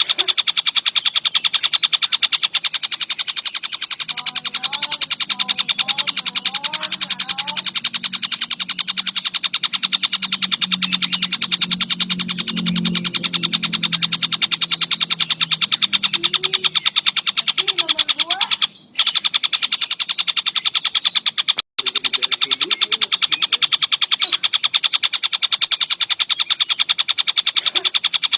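Tengkek buto kingfisher calling nonstop: a dense, rapid chattering of many notes a second, high-pitched and unbroken, with two brief gaps in the sound about two-thirds of the way through.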